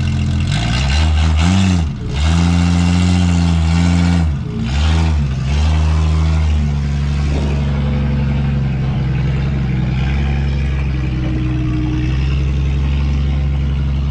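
Vehicle engine running close by, its pitch dipping and recovering twice in the first few seconds as it is revved and eased off. It then settles into a steady run from about six seconds in.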